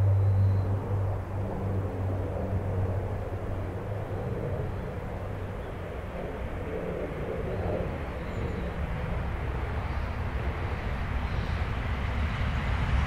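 E6 series Shinkansen train running past at low speed, a steady rumble of wheels on rail that grows louder near the end as it draws closer. A low hum at the start fades away within the first couple of seconds.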